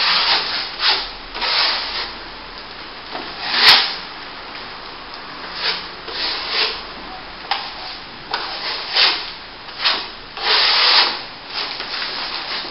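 Steel plastering trowel swishing and scraping over wet plaster top coat on plasterboard, in a series of uneven strokes, the loudest about four seconds in.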